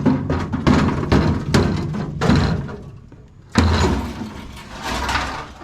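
A run of sharp metallic clanks and knocks, then a single heavy thump about three and a half seconds in: tools and metal parts being handled while working on the car.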